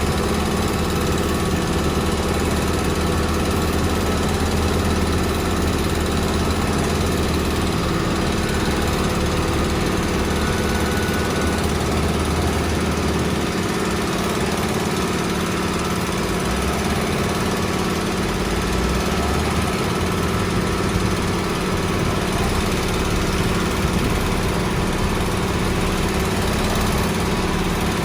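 Diesel engine of heavy road-construction machinery running steadily, its low rumble shifting about halfway through.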